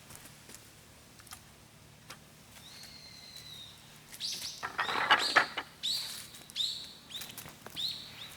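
A bird calling: a thin held whistle, then a quick run of short, high, sharp calls in the second half, the loudest and harshest about five seconds in.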